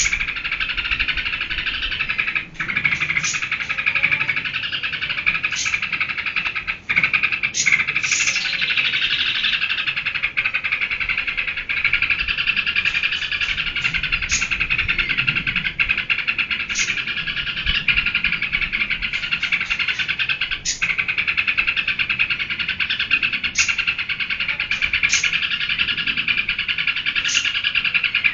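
Yellow-vented bulbul (trucukan) singing in a rapid, unbroken chatter ('geberan'), with short sharp high notes every second or two and two brief breaks near the start.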